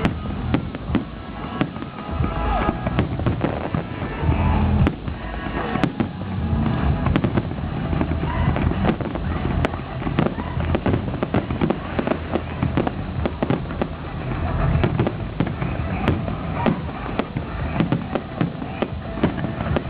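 Fireworks going off in a dense, rapid barrage of bangs and crackles.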